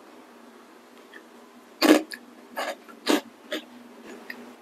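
Mouth chewing crunchy prawn-cracker sticks: four or five crisp crunches about half a second apart, starting about two seconds in, the first the loudest.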